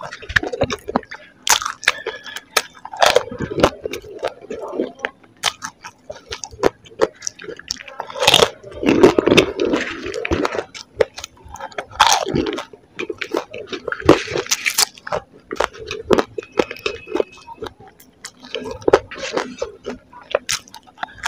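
Close-miked chewing and crunching of crisp golgappa (pani puri) shells topped with noodles, a dense run of irregular crackles and clicks, loudest about eight to ten seconds in.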